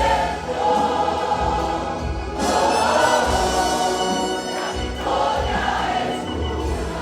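Church choir singing a Spanish-language worship song live, with instrumental backing, recorded as room sound.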